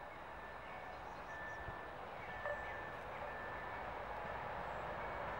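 Approaching passenger train hauled by an EU07 electric locomotive: a steady rumble of wheels on rail that grows slowly louder as it nears.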